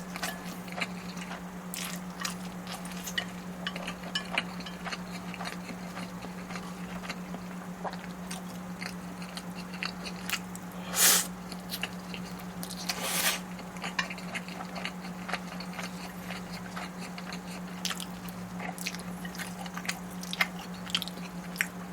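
Close-miked eating: scattered wet clicks of chewing and biting, with two louder, longer noisy bites or slurps about eleven and thirteen seconds in. A steady low hum runs underneath.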